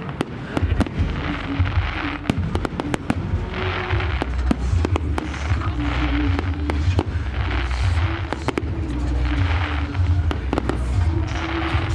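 Fireworks display: many sharp bangs and crackles over a deep low rumble, with music playing from loudspeakers across the park.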